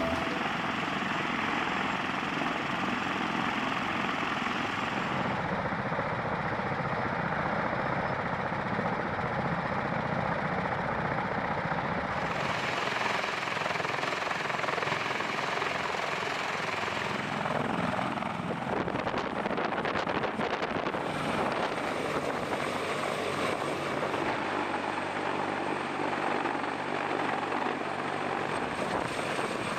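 Aircraft engines running: a steady, loud rushing noise that changes character abruptly several times.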